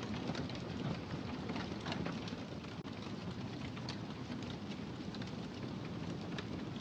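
Wood fire burning in a fireplace, with frequent small crackles and pops over a steady low rush.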